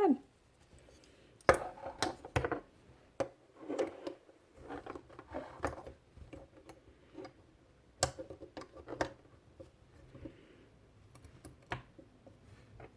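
Irregular clicks, taps and light rattles of the small parts of a Goatguns SVD Dragunov miniature model gun being handled and fitted together, with the sharpest clicks about one and a half seconds in and around eight seconds.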